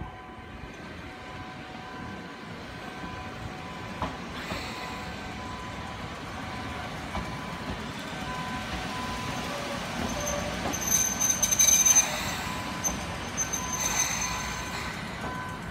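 Ohmi Railway electric train rolling slowly through the points into the station, its running noise building steadily. The wheels squeal in a high pitch, loudest about eleven to twelve seconds in and again around fourteen seconds.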